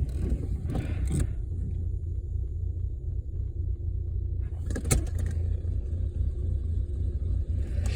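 Car engine idling with a steady low rumble, heard from inside the car. A hole in its exhaust pipe has been patched with a makeshift fix that had made the idle surge and nearly stall.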